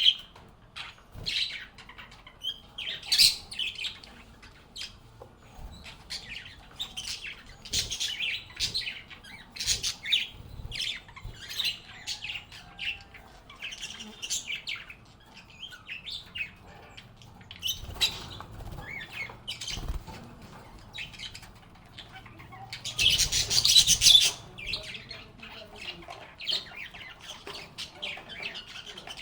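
Several lovebirds chirping and chattering in quick, short, high-pitched calls, with a denser, louder flurry of calls about three quarters of the way through.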